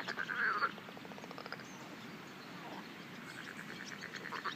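Frogs calling by the water: several bouts of rapid, rattling croaks made of fast, evenly spaced pulses, fairly faint.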